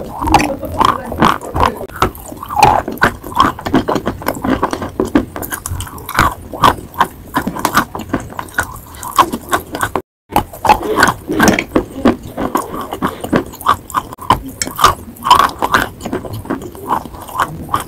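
Close-miked chewing of chalk: a quick, irregular run of crunches mixed with pasty, wet mouth sounds as the chalk is bitten and ground between the teeth. The sound breaks off for a moment about halfway through.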